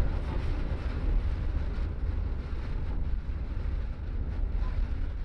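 MAN double-decker bus on the move, heard from inside the cabin: a steady low rumble of engine and road with a noisy wash of wind over it.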